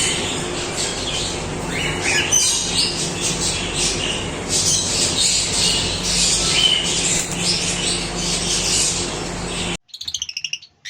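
A flock of small parrots chattering and squawking together in a dense, continuous clamour over a steady low hum. The sound cuts off abruptly near the end, leaving a few separate, sharper calls.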